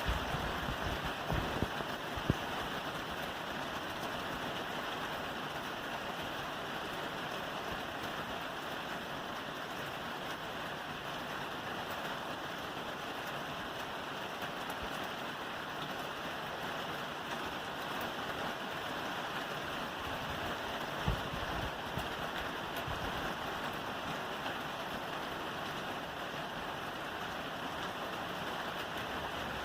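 Steady rain falling on a roof, an even hiss, with a few brief low thumps in the first two seconds and another about 21 seconds in.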